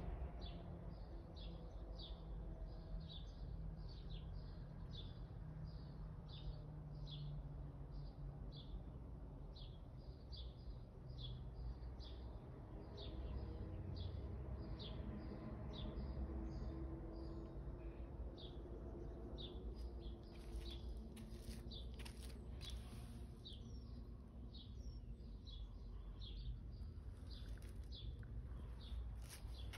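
A small bird chirping over and over, short high chirps at a little under two a second, over a steady low background rumble. Scattered sharp clicks come in during the last third.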